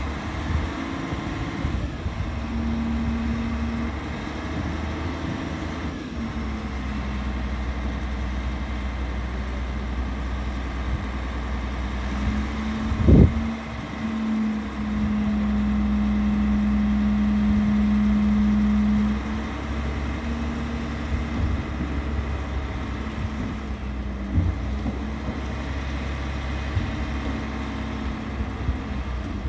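Heavy diesel engines of a truck recovery (backhoe loader and trucks) running steadily throughout, with a short loud knock about 13 seconds in and a strong steady tone held for about four seconds just after it.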